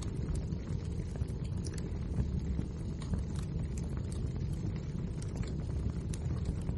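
Wood fire burning: a steady low rumble of flames with frequent small sharp crackles and pops from the logs.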